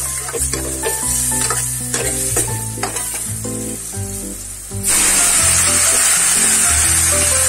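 Onion-and-spice masala for potato curry frying in a steel kadhai, stirred with a steel ladle. About five seconds in the sizzle jumps suddenly to a loud, steady hiss, as water goes into the hot pan and steam rises.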